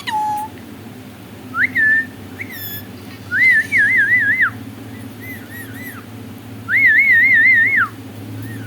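Indian ringneck parrot whistling: a run of rising whistles that break into warbling trills, with two longer warbled phrases about three and a half and seven seconds in, and shorter, softer whistles between them.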